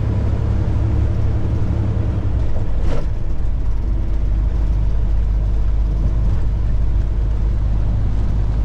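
Semi truck's engine and road noise heard from inside the cab: a steady low drone. About three seconds in there is a brief knock, after which the drone settles lower in pitch.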